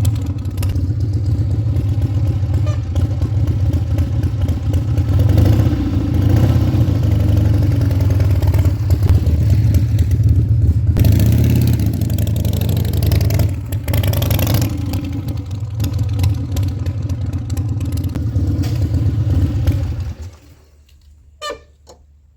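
Harley-Davidson Sportster 1200's air-cooled V-twin engine running loud, its revs rising and falling, then cutting off abruptly near the end.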